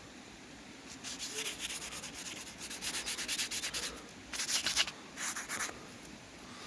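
Quick, rhythmic scraping strokes, about five or six a second for a few seconds, then two shorter spells.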